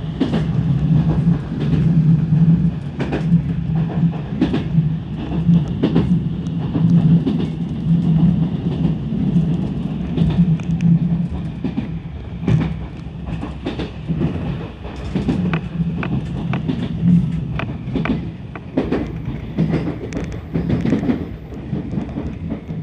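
Enshu Railway electric train running, heard from inside the car: a steady low hum with irregular clacks of the wheels over the rails.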